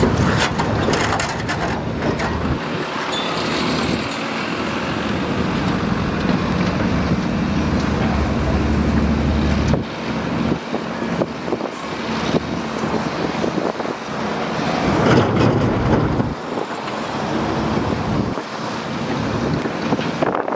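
Diesel engine of heavy earthmoving machinery running and working under changing load, with a steady low hum that eases off about halfway through and rises again a few seconds later.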